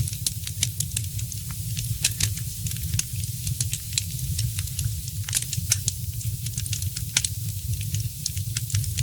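Wood fire crackling, with many irregular sharp pops and snaps, the loudest about two, five and seven seconds in, over a steady low rumble.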